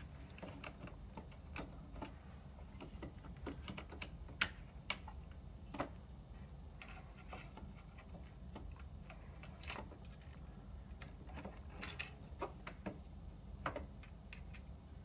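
Irregular small clicks and taps, like plastic and metal parts and screws being handled during a projector repair, over a low steady hum.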